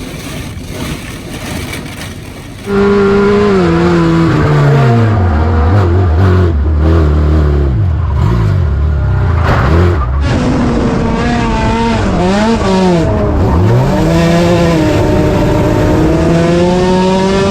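Race car engine under hard throttle, its pitch climbing and dropping again and again as the throttle is lifted and reapplied. The first few seconds hold a quieter rushing noise before the engine comes in loud.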